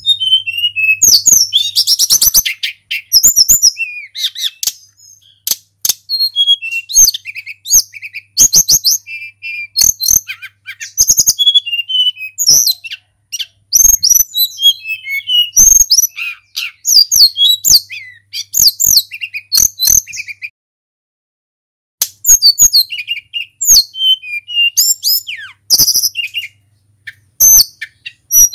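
Tledekan gunung singing a long, fast run of high whistled and chirping phrases, with a pause of about a second and a half near the two-thirds mark.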